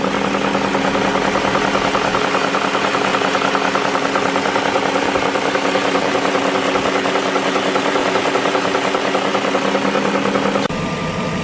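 BMW engine idling with a rattling whine from its timing chains rubbing on worn, disintegrating plastic chain guides. About ten seconds in it cuts to a quieter, smoother idling engine.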